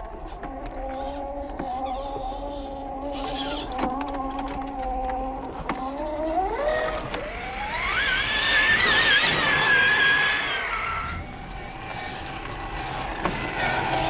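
Electric motor and drivetrain of an RC scale crawler truck whining at a steady pitch, then rising sharply in pitch about six seconds in as it speeds up, holding high for a few seconds before falling back.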